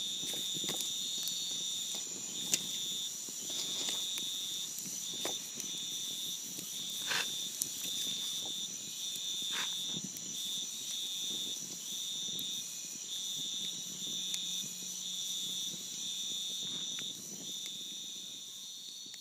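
Campfire crackling with scattered sharp pops over a steady chorus of night insects. The insects keep up a continuous high-pitched drone, and a lower trill switches on and off in runs of about a second. Everything fades out near the end.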